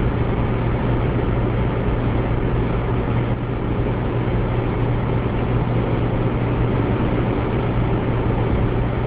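Steady car engine and road noise with a strong low hum, unchanging throughout.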